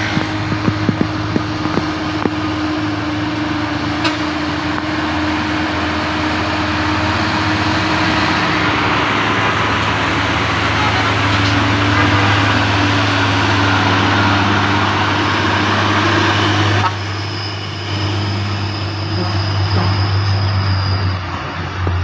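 Heavy trucks' diesel engines labouring up a steep grade, a steady low drone under a noise that swells and then drops off suddenly about seventeen seconds in.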